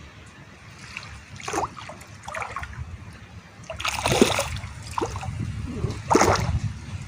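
Water splashing at the surface in four short splashes, the loudest a little after four seconds and about six seconds in, over a steady low rumble.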